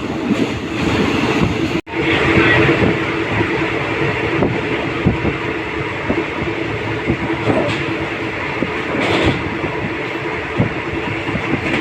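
Train running along the railway track: a steady rumble with many irregular small clicks from the wheels. The sound cuts out completely for a moment near two seconds in, then carries on.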